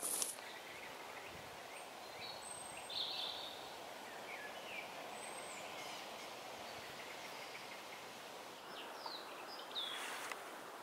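Woodland birds calling: a few short chirps and whistles scattered through, over a steady background hiss. There is a brief rustle at the start and another about ten seconds in.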